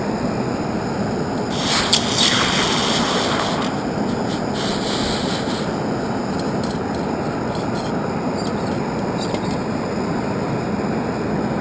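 Metal-melting furnace running with a steady rushing noise while Nordic gold bars heat in it. A brighter hiss rises over it twice in the first half, with a click about two seconds in.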